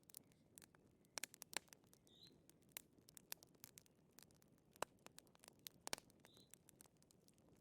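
Wood fire crackling faintly, with irregular sharp pops and snaps over a low hiss, and a faint short high squeak twice.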